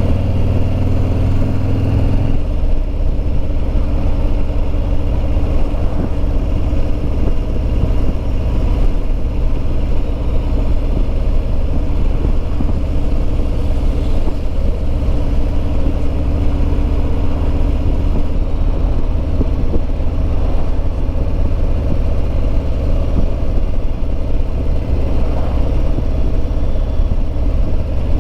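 2021 Harley-Davidson Road Glide Limited's Milwaukee-Eight 114 V-twin running steadily under way, with wind rumble on the microphone. About two seconds in the engine note steps down, then holds steady.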